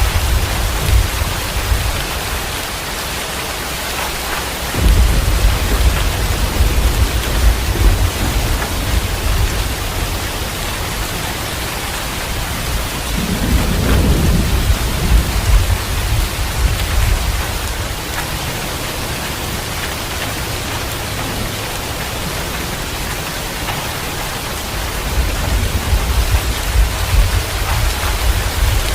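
Heavy rain falling steadily, with thunder rumbling low three times: about five seconds in, around the middle, and near the end.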